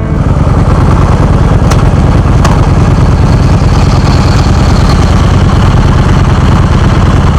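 Motorcycle engine idling with a steady, loud, low rumble.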